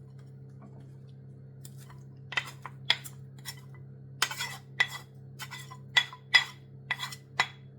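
Metal utensil knocking and clinking against a cooking pot, a dozen or so sharp ringing knocks at uneven spacing starting about two seconds in, as seasonings are tipped in and stirred.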